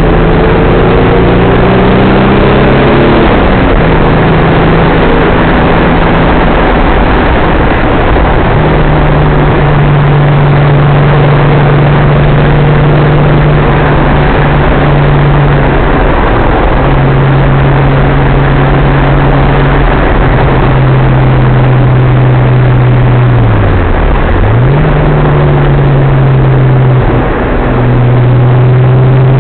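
Datsun 280ZX Turbo's turbocharged straight-six heard from inside the car while driving, over constant road and wind noise. The engine note climbs and then drops in pitch about three seconds in, holds steady, then dips sharply and comes back up in the last third.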